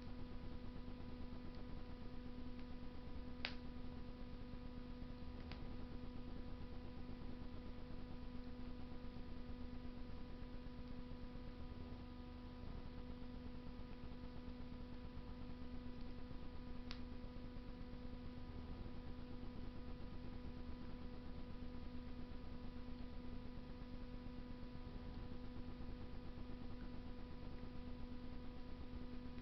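Wood fire burning in a Russian masonry stove: a steady low rushing noise broken by a few sharp crackles, one about three and a half seconds in, a fainter one two seconds later and another past the middle. A constant electrical hum runs under it.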